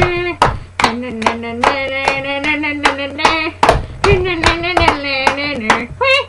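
A voice holding long sung notes that step up and down in pitch, with sharp hand claps or slaps landing irregularly throughout.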